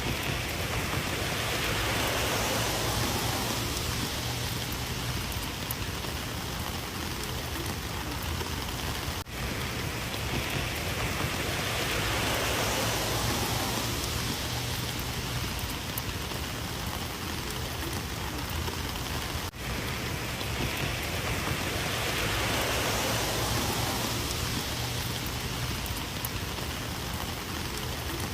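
Rain falling steadily, an even hiss of drops that swells and eases in a roughly ten-second cycle, with a momentary dip twice.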